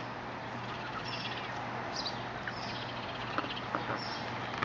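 Small birds chirping: a string of short, high, slightly falling chirps, repeated every half second to a second.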